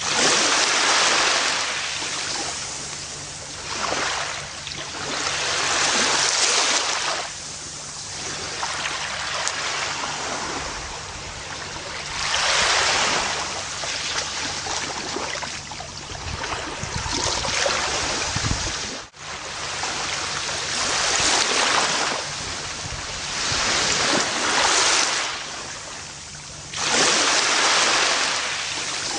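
Gentle ocean waves breaking and washing up a beach, each wave swelling and fading every few seconds. About two-thirds of the way through, the sound drops out for an instant.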